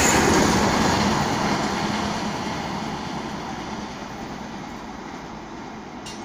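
Passenger express train passing at speed on its coaches, the wheel-and-rail rush loudest as the last coach goes by and then fading steadily as the train recedes.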